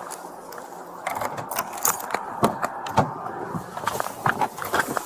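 Irregular rustling and sharp clicks of handling noise on a body-worn camera, thickening from about a second in.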